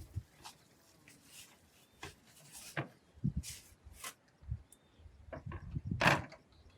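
Scattered light knocks, clicks and low thumps at irregular intervals, with a louder sharp knock about six seconds in.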